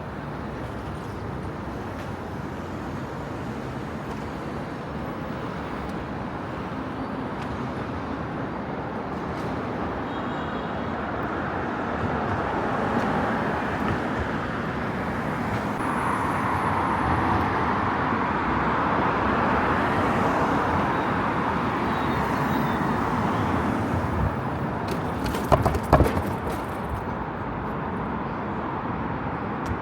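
Road traffic noise, steady and rising to its loudest around the middle as vehicles pass, with a few sharp knocks near the end.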